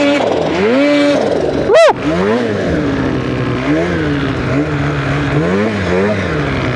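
Two-stroke mountain snowmobile engine revving up and down repeatedly while the sled climbs through deep snow, with one brief, sharp rise and fall in pitch about two seconds in.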